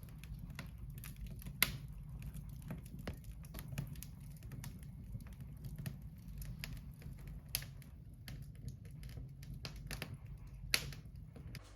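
Steak frying in a pan, fat spitting and popping irregularly over a low steady hum.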